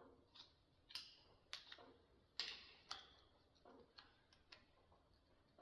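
Faint, irregular metallic clicks and taps of hand tools being handled and tried on a fastener, about eight sharp ticks over a few seconds.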